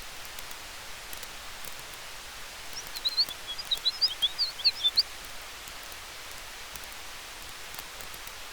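Campfire ambience: a steady hiss with faint, scattered crackles, and from about three to five seconds in a rapid burst of high bird chirps, the loudest sound here.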